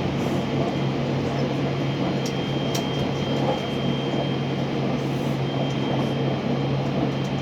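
Steady cabin noise inside a JR West 683 series limited-express electric train: an even rumble over a constant low hum, with a faint steady high tone.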